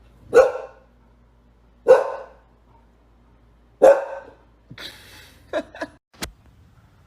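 Dog barking three times, single barks about two seconds apart, followed by a few fainter short sounds and a sharp click near the end.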